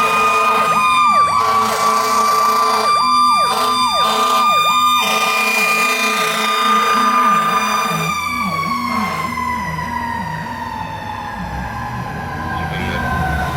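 Fire engine sirens on a response run. A high siren tone is held steady and broken briefly a few times, then falls slowly in pitch over the last several seconds. Under it runs the low, fast up-and-down warble of a Rumbler siren.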